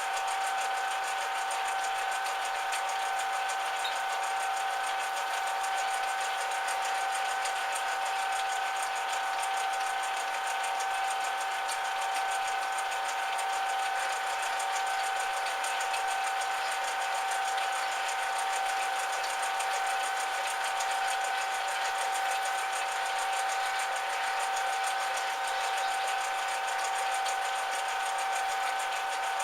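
Metal lathe running steadily, a constant mechanical whine with no change in speed.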